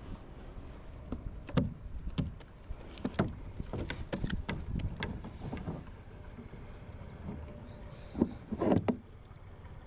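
Irregular knocks and clatter of gear against a kayak's hull, with a steady low rumble underneath; the knocks bunch in the first half and come loudest twice near the end.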